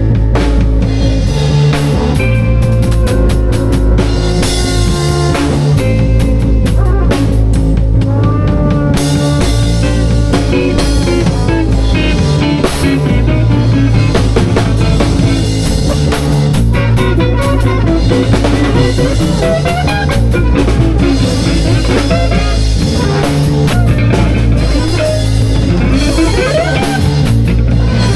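Live improvised rock jam: drum kit, electric guitar and bass playing together, loud and steady, with a rising slide in the upper part near the end.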